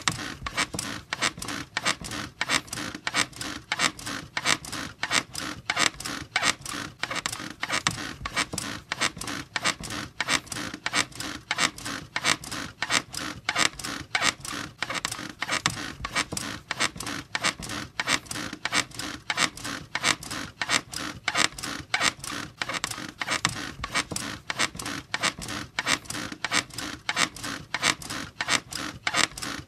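A bed squeaking over and over in a fast, steady rhythm, as if rocked back and forth.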